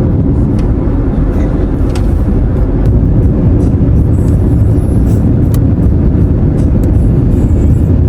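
Car driving on the road, heard from inside the cabin: a steady low rumble of road and engine noise.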